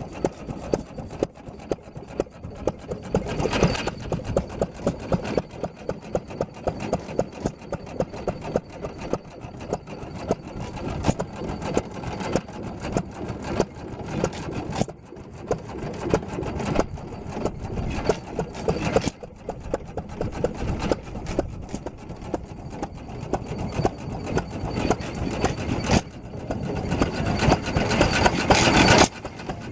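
Antique hit-and-miss gas engines running, a fast string of sharp firing pops and mechanical clatter, several a second.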